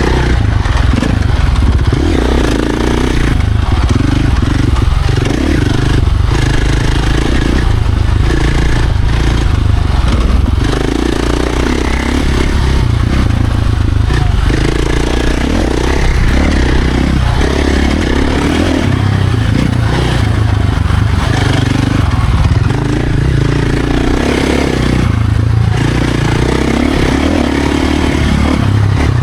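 Dirt bike engine running hard as it is ridden along a trail, the revs rising and falling every second or two with the throttle.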